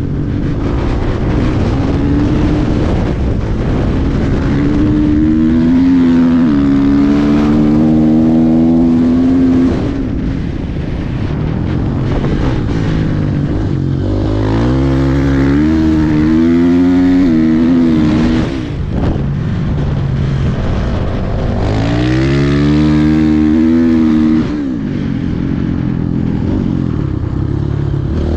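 Dirt bike engine revving hard and climbing in pitch over and over as it pulls through the gears. The engine note drops away sharply three times as the throttle is closed.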